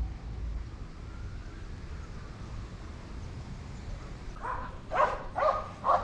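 A dog barking, a quick run of short barks starting about four and a half seconds in, after a few seconds of faint background.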